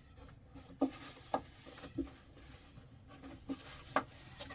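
A few soft, short knocks and taps, about five spread irregularly across the few seconds, with faint rubbing in between.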